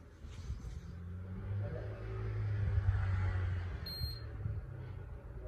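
Akari mini split air conditioner giving one short, high beep about four seconds in, the kind it gives on taking a remote-control command, over a low hum that swells in the middle.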